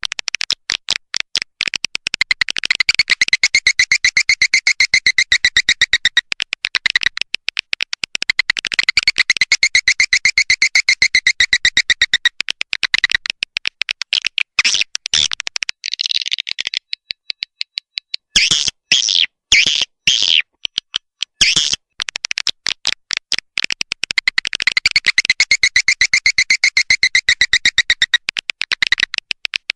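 Swiftlet lure call: a recording of swiftlet twittering, rapid trains of high chirps, played to attract swiftlets to a nesting house. It comes in long, fast phrases, with a stretch of sparser, louder chirps around the middle.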